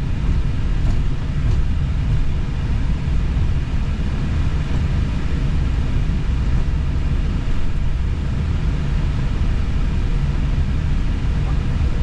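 Airbus A320 cockpit noise while taxiing: a steady low rumble with a faint hum of steady tones above it.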